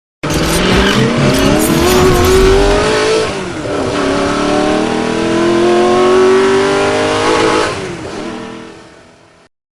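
1977 Cadillac Eldorado's V8 engine accelerating hard. The pitch rises, falls back at a shift about three seconds in, climbs again, then eases off and fades before cutting off suddenly.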